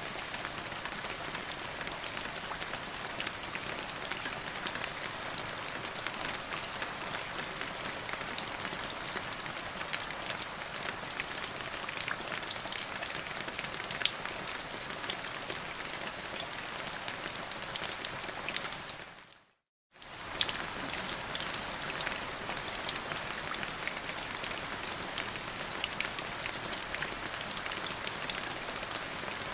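Steady rain falling, with individual drops ticking sharply throughout. About two-thirds of the way through, the rain fades out to silence for about half a second and then resumes.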